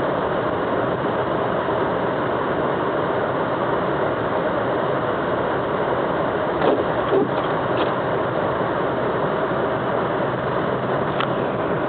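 Car driving, heard from inside: steady road and engine noise, with a few brief knocks around seven and eleven seconds in.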